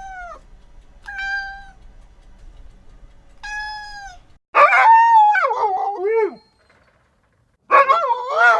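A domestic cat meowing: short calls held on one pitch that drop away at the end, then two louder meows whose pitch bends and wavers.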